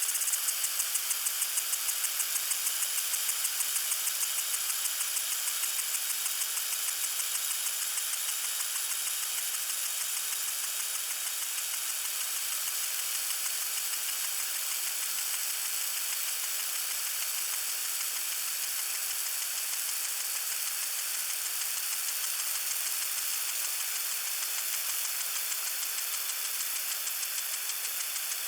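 Lawn sprinkler spraying water: a steady hiss with a fast, even ticking pulse running through it.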